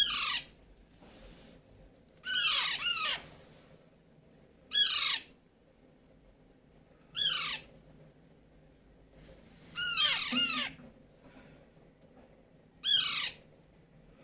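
Baby Alexandrine parakeet calling: six loud calls, about two to three seconds apart, the second and fifth longer and doubled.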